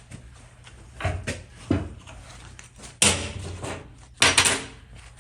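Four knocks and clunks of steel workpieces and tools being handled on a workbench; the last two, about three and four seconds in, are the loudest, each with a short ring after it.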